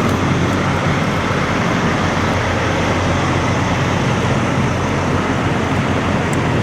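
Steady rumble of idling and passing vehicle engines, with no distinct events and no rise or fall.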